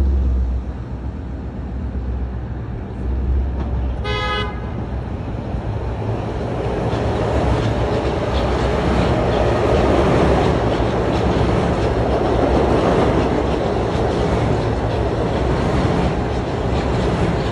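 Metro-North electric commuter train approaching and running close underneath. A short horn blast comes about four seconds in, then the train's passing wheel-and-rail noise builds and stays loud as the cars go by.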